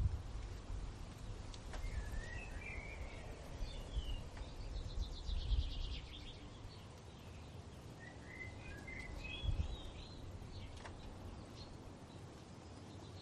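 Songbirds singing: a short warbled phrase about two seconds in and another about eight seconds in, with a fast, even trill in between. A low, gusty rumble of wind runs under the birdsong, strongest in the first half.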